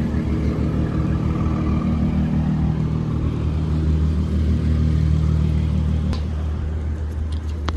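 A car engine running steadily close by, a low, even rumble that eases slightly about six seconds in.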